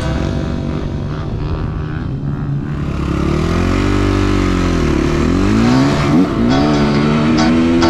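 Dirt bike engine revving while riding. The pitch climbs and falls about halfway through, dips sharply twice, then holds higher near the end.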